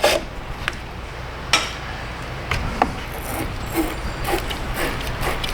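Scattered metallic clicks and a sharp knock as a corroded battery cable terminal is worked by hand, followed by short, irregular scrubbing strokes from about three seconds in as the connection is cleaned.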